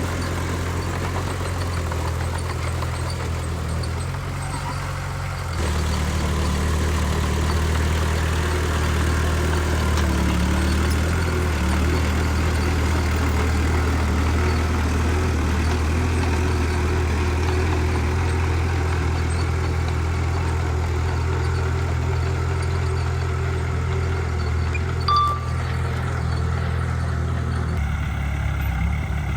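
Heavy diesel engine of earthmoving machinery running steadily at a low, even hum, growing louder about five and a half seconds in. There is a short sharp blip near the end.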